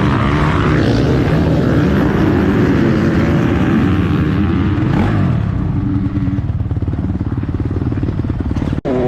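Motocross bike engine running hard, then settling into a steadier, lower-pitched running about halfway through. The sound breaks off suddenly for a moment near the end.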